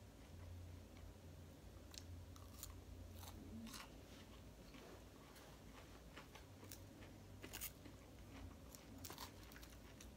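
Quiet, soft chewing of a soggy lettuce salad with ranch dressing and chicken nugget pieces, not crunchy, with faint scattered clicks now and then over a low hum.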